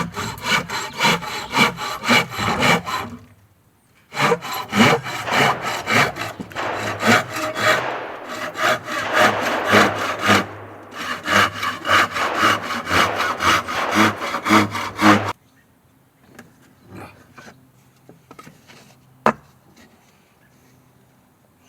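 Hand saw cutting wood in quick, even back-and-forth strokes, with a short break about three seconds in. The sawing stops about fifteen seconds in, followed by a few light knocks and one sharp click.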